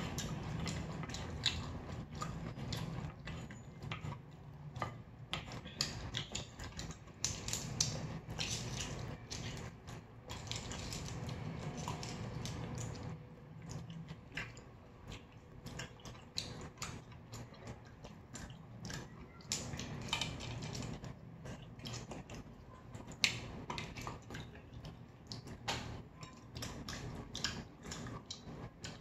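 Close-miked eating: food chewed and bitten, with many small irregular wet clicks of the mouth.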